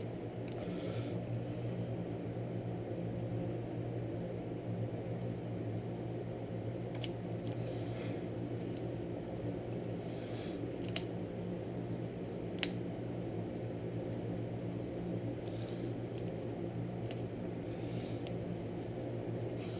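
A steady low hum, like a fan or shop machine, with a few sharp metallic clicks and handling rustles from hand-working the parts of a recoil pull starter, the loudest click about twelve and a half seconds in.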